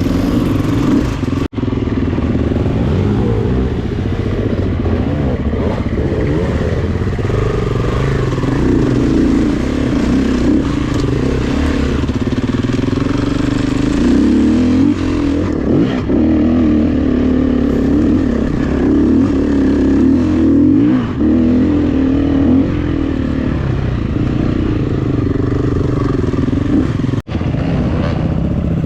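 Honda CRF250F dirt bike's single-cylinder four-stroke engine running under riding load on a trail, its pitch rising and falling with the throttle, with some clatter. The sound cuts out briefly twice, once early and once near the end.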